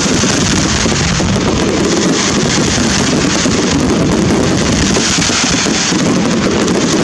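A dense, continuous barrage of fireworks: many rapid crackles and small bangs merging into a steady loud rush with no breaks.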